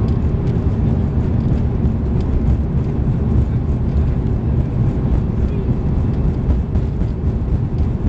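Steady low rumble inside the cabin of an Airbus A340-300 on the ground: its four CFM56 jet engines and the airframe heard through the cabin wall, with no rise or fall.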